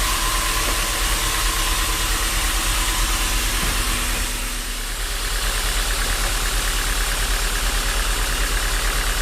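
Sawmill machinery running steadily: a loud engine-like drone with an even pulse, dipping briefly about four and a half seconds in before picking up again.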